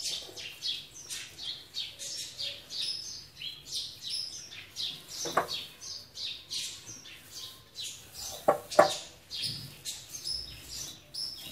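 Small birds chirping over and over, several short high chirps a second. A knock sounds about halfway in, and a louder pair of knocks about three quarters of the way through.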